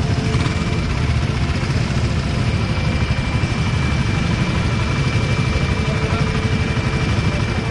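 Motorcycle engines running steadily, with a faint steady high whine over them.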